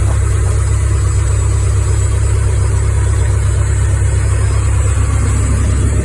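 Cessna light aircraft's piston engine and propeller running with a steady, loud low drone.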